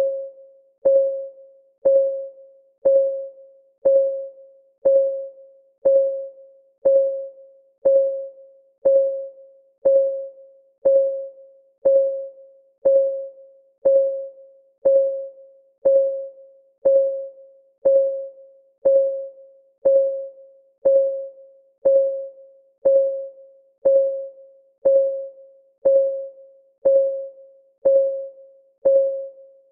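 Countdown timer's clock-tick sound effect, ticking steadily once a second; each tick is a sharp click with a brief ringing mid-pitched note that quickly fades.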